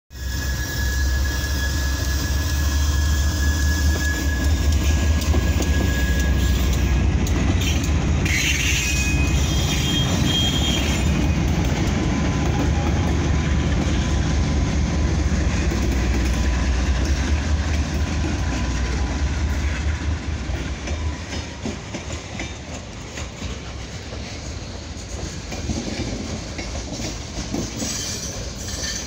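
A Pan Am Railways local freight train passing close: the diesel locomotive's deep engine rumble and the rolling of the cars, loud and steady for about twenty seconds, then dropping off as the rest of the train goes by.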